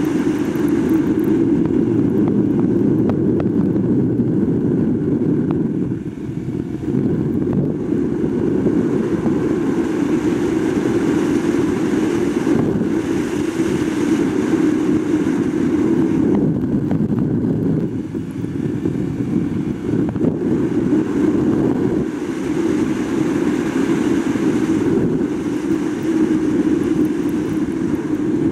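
Engine of a 2021 Yamaha R1, a crossplane inline-four, running hard as the bike is ridden at speed. The level dips briefly about six seconds in and again about eighteen seconds in.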